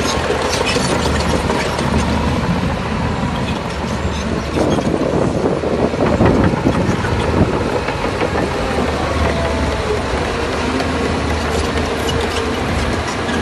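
Shantui crawler bulldozer's diesel engine running under load with a steady low hum, its steel tracks clanking. About four seconds in, a louder, rougher stretch of clatter lasts about three seconds before it settles back.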